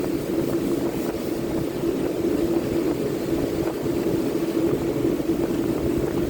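Electric power sander running steadily with a constant pitched hum over the rasp of sanding.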